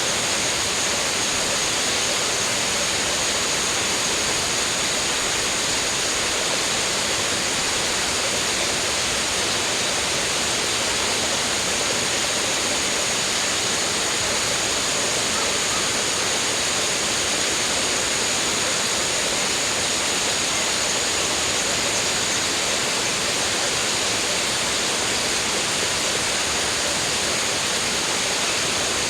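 Steady rushing of flowing water, with an even, unbroken hiss and a constant thin high tone over it.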